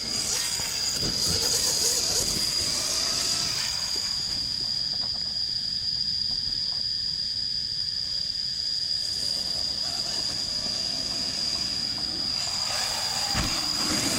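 Electric dirt bike with a QS138 3000 W motor, giving a steady high-pitched whine over a rushing noise.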